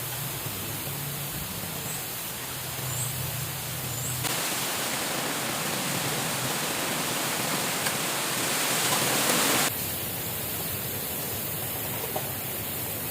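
Steady rushing water noise, with a brighter, slightly louder stretch in the middle that starts and stops abruptly.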